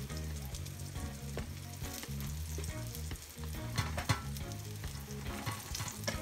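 Floured eggplant slices shallow-frying in oil in a nonstick skillet, sizzling with steady crackling pops. A burst of louder crackling comes about four seconds in.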